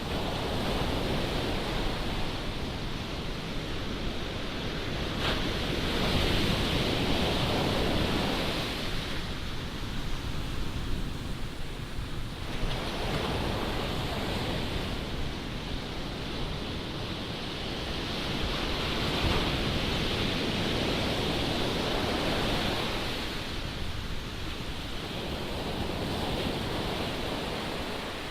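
Ocean surf breaking and washing ashore under strong wind, the wash swelling and fading every several seconds. Wind buffets the microphone with a steady low rumble.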